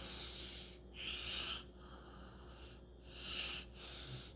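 A person breathing close to the microphone: several soft breaths in and out, over a faint steady hum.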